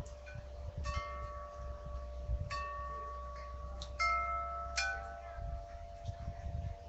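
Wind chimes ringing: metal tubes struck a few times at different pitches, each note ringing on and overlapping the others, over a low steady rumble.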